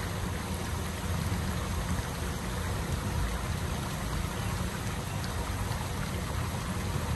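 DR2102 diesel railcar under way: a steady low rumble of engine and running gear with an even rushing hiss of wheels on rail.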